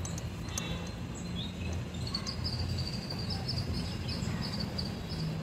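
A bird chirping in a fast, high-pitched run of repeated notes, starting about two seconds in, over a low steady background rumble.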